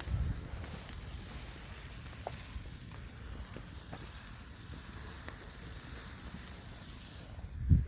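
Wood fire crackling with scattered small pops under a pot of ramyeon boiling over it, over a steady low rumble. A dull low thump comes near the end.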